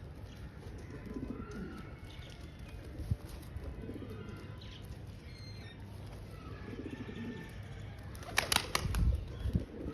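Pigeons cooing, several low rolling coos a few seconds apart, with a short burst of loud wing-flapping near the end.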